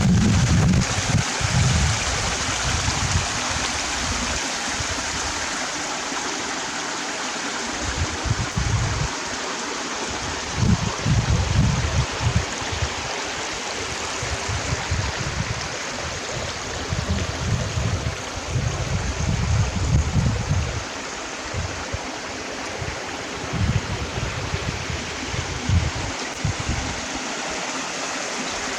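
Running water of a stream, a steady rushing, with low rumbles coming and going underneath.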